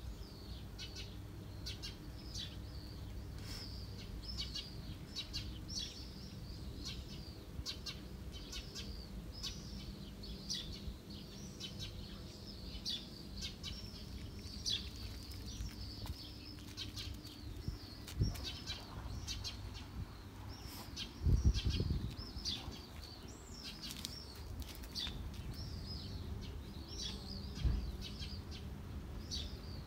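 Many small birds chirping, short high chirps following one another several times a second without a break, over a low rumble. A few dull thumps stand out, the loudest about two-thirds of the way through.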